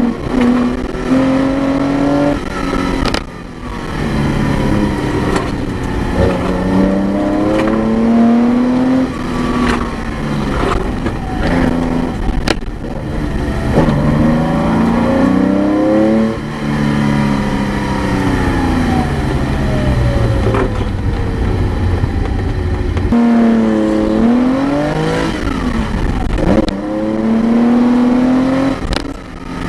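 Porsche 914-6's air-cooled flat-six engine, heard from inside the cabin, revving up and down over and over as the car accelerates hard, lifts off and shifts gears.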